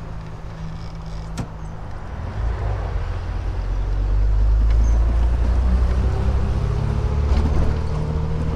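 Triumph Vitesse 2-litre's straight-six engine running as the car drives along, a steady low rumble that grows louder from about three seconds in, its pitch slowly rising near the end. A single sharp click about a second and a half in.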